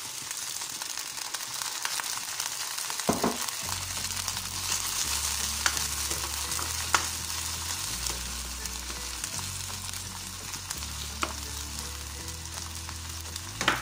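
Sardines, green chillies and onions sizzling in a pan just after a splash of water, with a spatula stirring and tapping against the pan a few times. Soft background music with a low bass line comes in about four seconds in.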